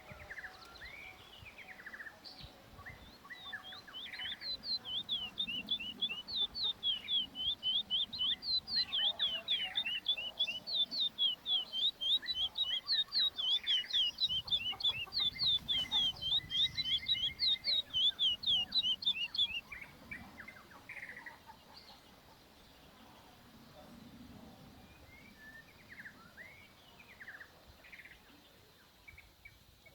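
Curió (chestnut-bellied seed finch) chicks chirping: a long, fast run of short, high, downward-sweeping chirps, about four a second, that stops about two-thirds of the way through, with scattered softer chirps before and after.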